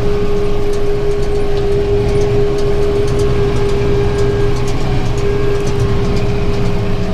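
Tractor engine running steadily under load, with a round baler driven off its PTO picking up and feeding hay from the windrow, and a steady hum throughout. The baler is being run below 540 rpm PTO speed because a bent bar makes it vibrate at full speed.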